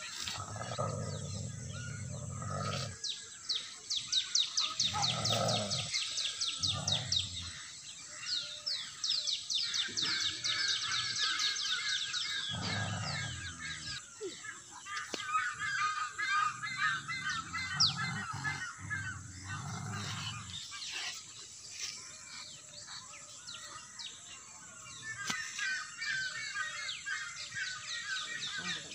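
Birds chirping and trilling, in runs of rapid high chirps, with several short low sounds in between.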